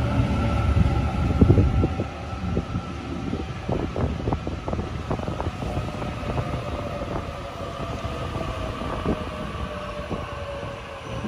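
Sydney Trains electric suburban train rolling slowly along a platform. Its whine falls steadily in pitch as it slows, over a low rumble, with many clicks and knocks from the wheels and running gear. The rumble is loudest about a second and a half in.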